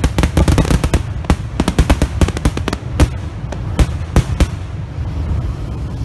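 Fireworks display going off: a rapid string of sharp bangs and crackles from bursting aerial shells, thinning out to a few separate cracks and stopping about four and a half seconds in.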